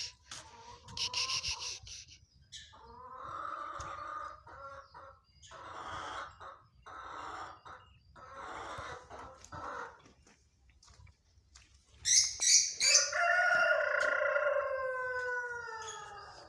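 Chickens calling in a string of short calls, then a rooster crowing once in one long call that falls slowly in pitch near the end. High chirps come about a second in and again just before the crow.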